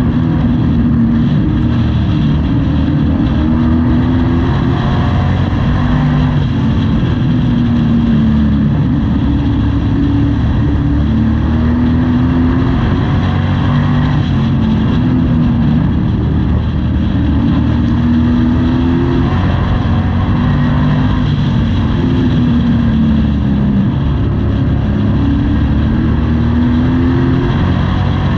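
Pro Truck race truck engine heard from inside the cab at racing speed, its pitch rising and falling every two to three seconds as the driver gets on and off the throttle.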